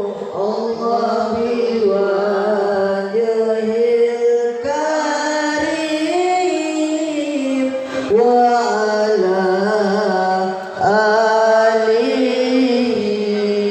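Singing: long held sung notes moving slowly from pitch to pitch, with a short dip in loudness a little before three-quarters of the way through.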